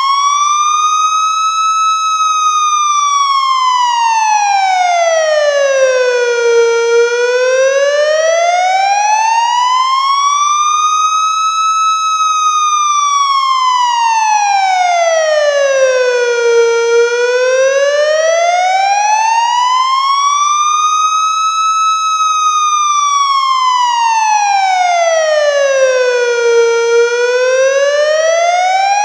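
Electronic emergency-vehicle siren in a slow wail, its pitch rising and falling smoothly in long sweeps of about ten seconds each, at a steady loudness.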